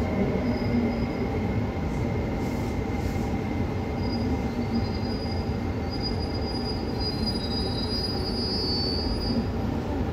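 Tsukuba Express TX-3000 series electric train heard from inside, braking from about 22 km/h to a stop with a steady running rumble. A thin high squeal comes in about four seconds in and dies away just before the train comes to rest.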